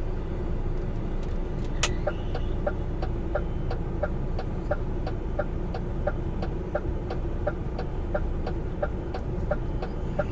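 Truck's diesel engine running low in the cab, with a sharp click about two seconds in followed by steady ticking at about three ticks a second, like the turn-signal relay.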